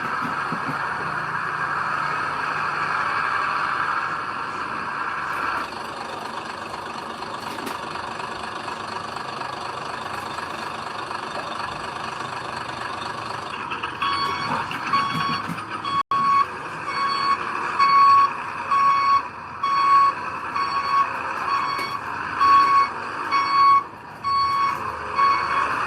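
Heavy diesel machinery running steadily. From about halfway through, a reversing alarm starts beeping about once a second as a machine backs up.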